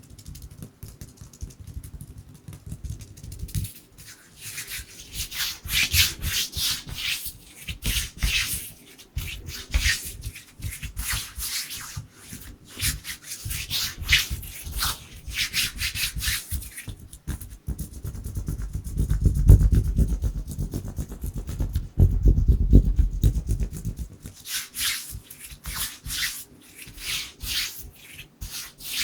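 Dry bare hands rubbing and brushing together close to the microphone in quick runs of fast, swishing strokes. For several seconds past the middle the sound turns deep and muffled.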